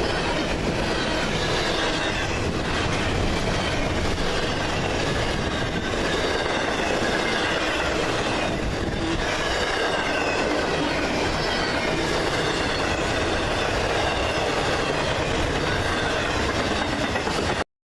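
CSX freight train's cars rolling past on the rails in a steady rumble, with faint wavering wheel squeal above it and occasional wheel thumps over rail joints. The sound cuts off suddenly near the end.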